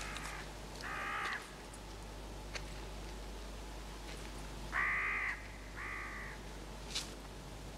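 A bird calling harshly four times, once near the start, again about a second in, and a pair around five to six seconds in, with a sharp click near the end.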